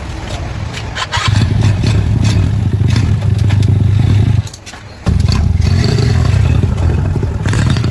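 The engine of a restored 1967 Honda external-clutch motorcycle running. It gets louder about a second in, cuts out for about half a second a little past the middle, then picks up again.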